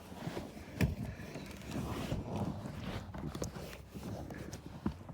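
Irregular rustling, scraping and handling knocks from hands and a camera working in the cramped space under a car seat, with a sharp knock about a second in and another near the end.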